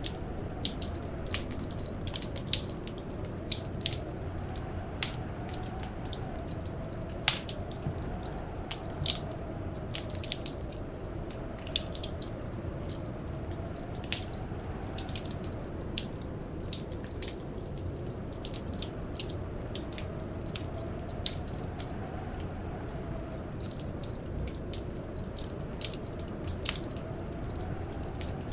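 Wood fire crackling in a fireplace: irregular sharp pops and snaps, several a second, over a steady low rumble, with a faint wavering howl of blizzard wind.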